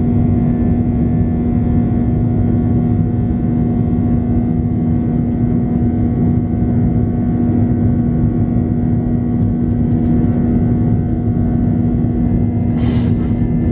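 Airbus A320 cabin noise: the steady drone of the engines and airflow, with a constant low hum. A brief hiss sounds near the end.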